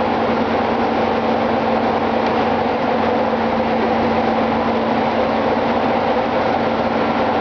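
Ship's engine-room machinery running: a loud, steady drone with a constant hum that does not change.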